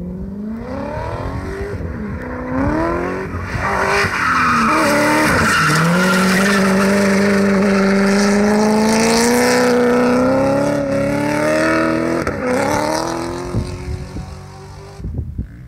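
A BMW E30's swapped-in M60B40 V8 revs up in several rising pulls, then is held at high revs for several seconds while the rear tyres spin and squeal through a smoky drift. It lifts and climbs once more briefly, then fades as the car slides away.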